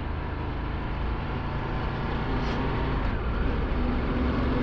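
Ducati Multistrada 1260 S motorcycle, with its V-twin engine, cruising at a steady speed. Its engine note is mixed with steady wind and road noise.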